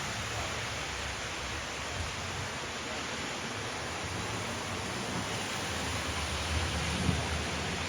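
Lionel O-gauge model trains running on a club layout: a steady rumbling whir with hiss, with a couple of small knocks near the end.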